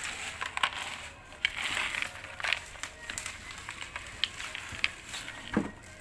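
Packaging being handled: rustling and crinkling with scattered sharp clicks and taps.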